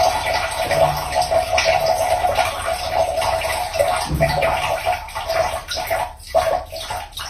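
A cat urinating into the water of a toilet bowl: a steady trickling stream that breaks up into short spurts about six seconds in, as it tails off.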